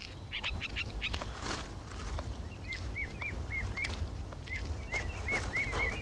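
A small bird calling in two quick runs of short, chirps, starting about three seconds in. Before that, brush rustles and crackles as a bull moose's antlers move through the branches.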